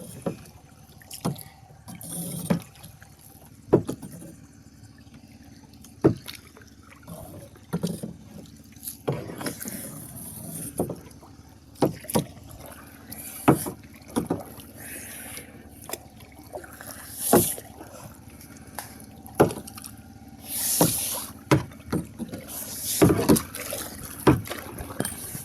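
Paddling a canoe one-handed: irregular knocks every second or two from the paddle against the hull, with brief splashes of water off the blade between them.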